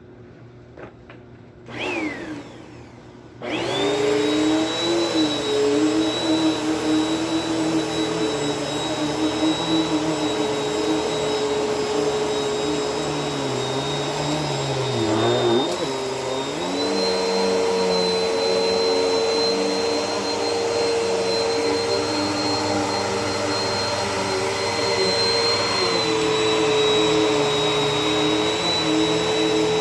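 Bissell vacuum cleaner motor kicks on in a short burst that winds down, then starts for good about three and a half seconds in. It runs steadily over carpet, its pitch wavering and shifting around the middle as the load changes.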